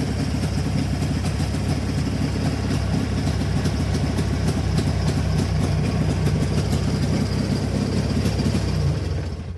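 Jawa 638.5 motorcycle's two-stroke twin-cylinder engine idling steadily, warmed up and freshly carburettor-adjusted. It stops near the end.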